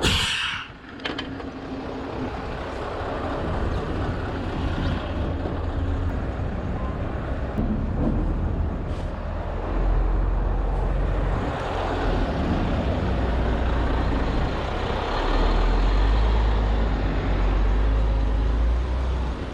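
Scania V8 truck running, with a short sharp air hiss from the air brakes at the start. The low engine note then grows louder as the truck pulls away and works harder.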